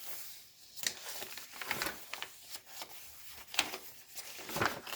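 Paper pages of a handmade journal being turned and handled, about five short rustles roughly a second apart.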